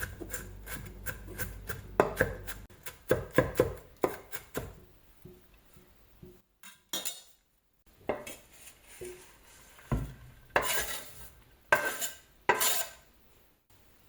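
Kitchen prep on a cutting board while preparing carrot. First comes a quick, even run of light taps, then a few heavier knocks, and near the end several longer scraping swipes.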